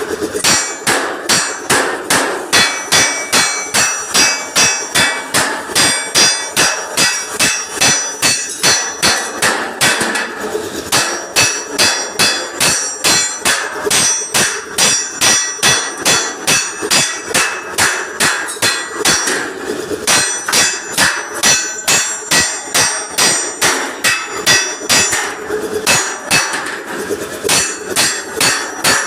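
Hammer beating on the steel of a truck's front bumper to knock out a dent, about two ringing metallic blows a second, with a few short pauses.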